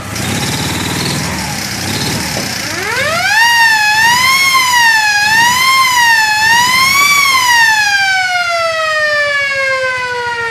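The restored siren of a 1987 Ural 8.103 police motorcycle is switched on over the running engine: a few seconds in it winds up in a steep rising wail, wavers up and down three times, then winds slowly down in pitch.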